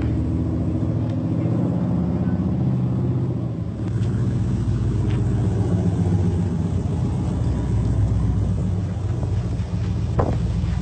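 Engine of the Fast and Furious 8 'Ice Charger', a rebuilt Dodge Charger, running with a steady low rumble. It eases off briefly about four seconds in, then picks up again.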